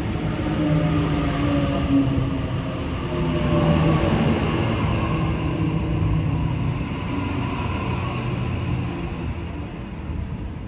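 Sydney Trains double-deck electric train passing at close range: a steady rumble of wheels on the rails with a hum of several held tones from the train, easing off slightly near the end.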